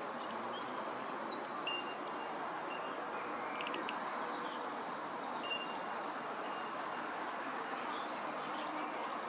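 Scattered short bird chirps and whistled notes over a steady background rush.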